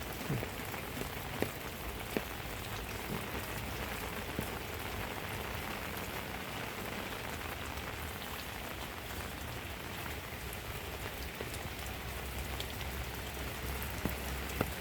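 Heavy rain falling steadily: an even, constant hiss with scattered sharp taps of drops.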